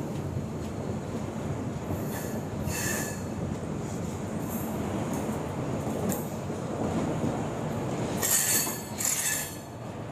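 Passenger train rolling into a station: a steady rumble of the coaches on the track, with high wheel squeals about two seconds in and again, louder, near the end.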